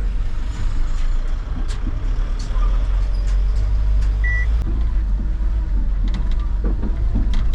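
Truck engine running with a loud, steady low rumble, with scattered clicks and a short high beep about four seconds in.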